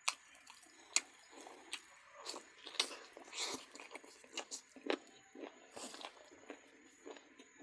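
Close-up chewing and biting of duck meat: irregular wet mouth sounds broken by sharp crunchy clicks.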